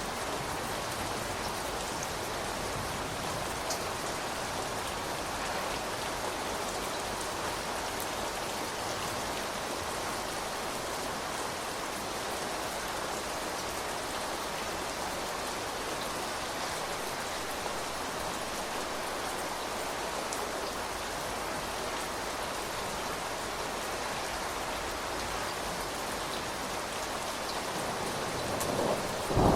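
Steady rain falling on outdoor surfaces, an even hiss with scattered drop ticks. In the last second or so it swells as a louder low rumble of thunder begins.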